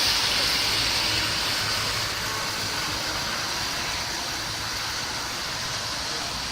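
Claas Lexion 540 combine harvester running at work, a steady mechanical drone with a broad hiss from the threshing and cutting gear. It grows somewhat quieter over the first couple of seconds, then holds steady.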